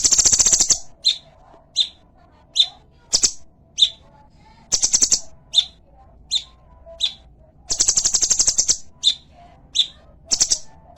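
Cungkok, a small songbird, calling: rapid high trills of about half a second to a second, four times, with single short sharp chirps between them.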